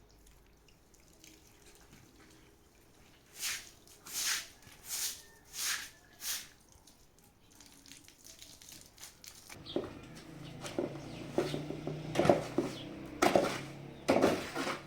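Water splashing: five short splashes in quick succession. A louder, busier stretch follows in the last few seconds, with a steady low tone under it.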